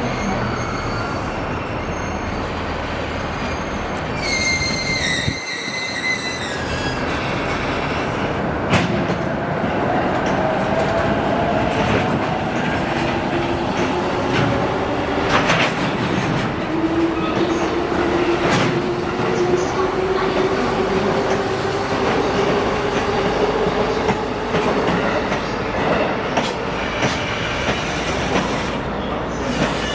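Electric train pulling away and gathering speed: a motor whine rises steadily in pitch over about fifteen seconds, with wheel clicks over rail joints. A brief high wheel squeal comes a few seconds in.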